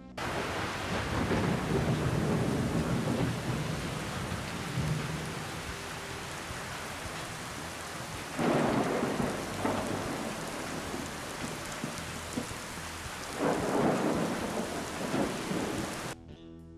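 Steady rain falling, with thunder rumbling in twice, about halfway through and near the end. The rain starts suddenly and cuts off shortly before the end.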